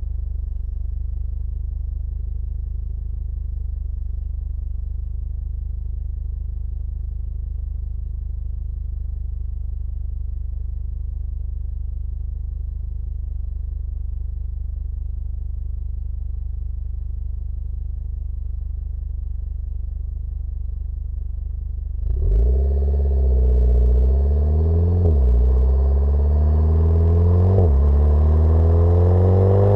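Mitsubishi Lancer Evolution X's turbocharged four-cylinder engine, breathing through a catless Milltek turbo-back exhaust, idling steadily, then revved up and dropped back several times from about 22 seconds in, climbing again near the end.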